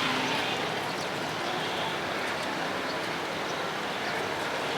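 Steady busy-street background noise: passing traffic mixed with faint voices, with no single sound standing out.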